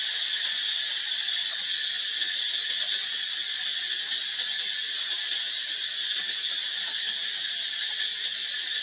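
Steady, unbroken high-pitched drone of an insect chorus, such as cicadas or crickets, holding an even level throughout.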